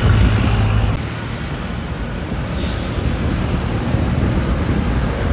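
Heavy trucks passing on a road: a steady low engine and tyre rumble, loudest in the first second, with a short hiss about halfway through.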